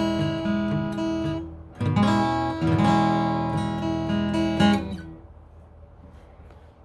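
Fender acoustic guitar playing an E minor chord figure with moving notes, breaking off briefly about a second and a half in, then playing on and ringing out, dying away after about five seconds.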